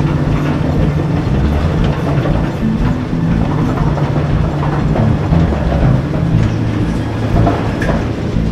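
Small underground mine tour train running through a narrow rock tunnel: a steady low drone from the locomotive, with the wheels clattering on the rails.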